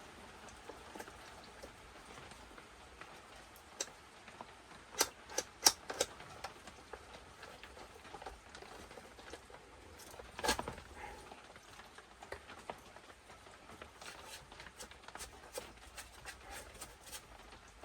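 Scattered light clicks and taps of small metal parts and tools being handled on a workbench, with a few sharper knocks about five to six seconds in and another around ten seconds in.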